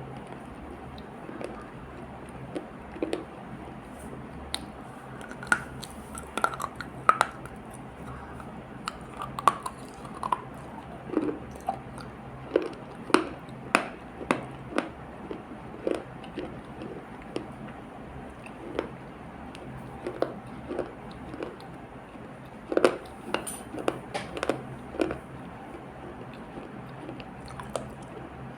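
Close-miked chewing and biting of an earthy clay paste, with irregular crisp clicks and crunches that come thickest in the middle and again a little before the end.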